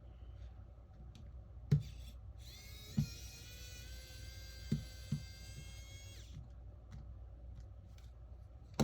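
Small electric precision screwdriver motor spinning up with a brief rise in pitch, then whining steadily for about four seconds before it stops, backing out a tight phone screw. Light clicks and knocks of the tool against the phone come before and during the whine.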